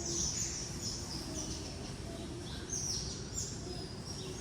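Many birds chirping and twittering together, short high calls and quick falling notes overlapping one another, over a steady low background rumble.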